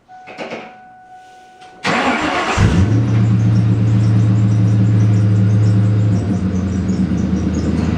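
Ford Mustang GT's 4.6-litre V8 starting up through a catless H-pipe and Flowmaster mufflers with no tailpipes fitted. A brief starter whine, then the engine fires with a loud burst about two seconds in and settles into a steady, deep idle.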